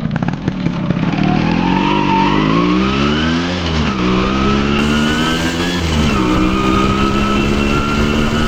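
Yamaha RX100 two-stroke motorcycle engine pulling through the gears: the pitch rises, drops at a shift about three and a half seconds in, climbs again and drops at another shift around six seconds, then holds steady.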